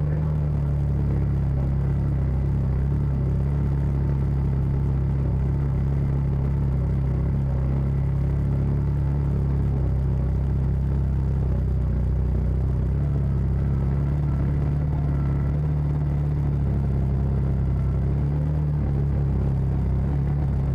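A CFMoto side-by-side's engine running steadily under load as it climbs a very steep trail, a low even drone.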